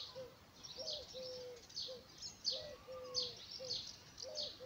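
A dove cooing a low three-note phrase, over and over about every two seconds, with small birds chirping high above it.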